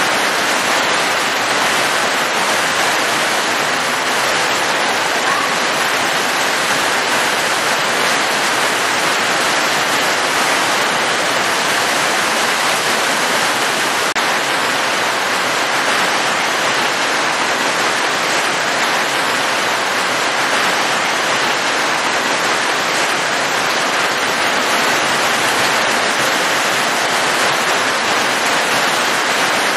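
Heavy rain pouring down in a steady, even hiss, with no single drops or thunder standing out.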